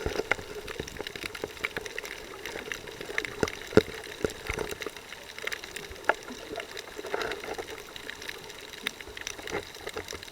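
Water sloshing and bubbling around a snorkeler's camera, with scattered sharp clicks and crackles at irregular intervals.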